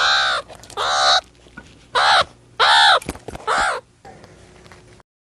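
Meerkat giving a string of five harsh calls, each about half a second long and rising then falling in pitch. The sound drops away about four seconds in and cuts off shortly after.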